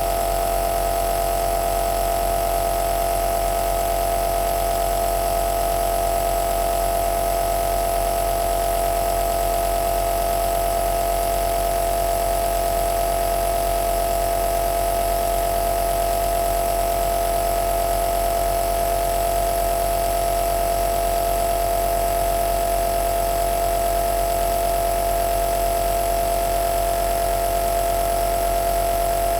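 Compressor nebulizer (home aerosol machine) running steadily: an even motor hum with one strong mid-pitched tone and a faint hiss over it.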